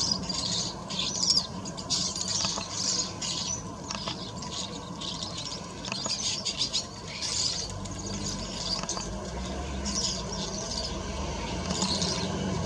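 Small garden birds chirping and twittering in quick, high bursts over and over, with a low rumble underneath in the second half.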